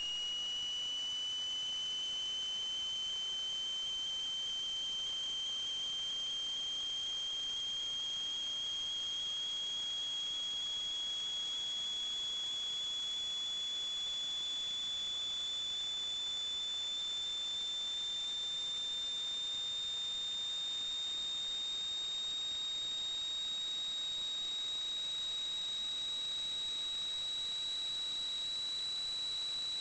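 A high-pitched electronic whine over a steady hiss, its pitch creeping slowly higher.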